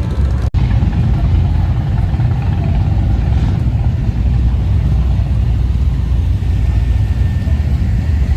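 Motorcycle engines rumbling steadily in street traffic, a deep continuous drone, with a split-second dropout about half a second in.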